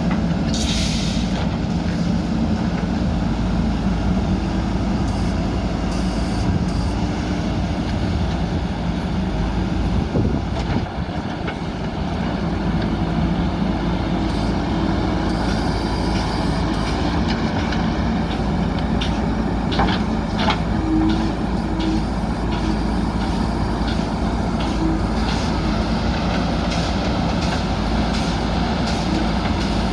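Diesel engines of JCB backhoe loaders running steadily under load, with a brief easing off partway through and a few sharp knocks about two-thirds of the way in.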